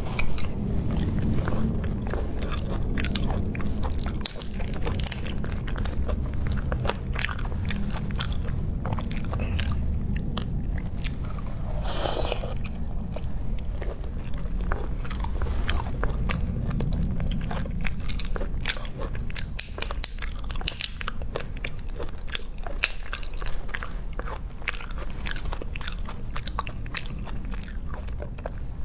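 Close-miked eating of raw marinated shrimp: wet chewing and crunching with many small mouth clicks, over a steady low hum. There is a short louder burst of noise about twelve seconds in.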